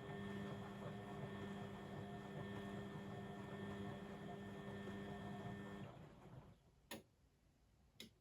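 Blomberg WAF 7442 SL washing machine running with a steady electric hum that cuts off about six seconds in, followed by two sharp clicks about a second apart.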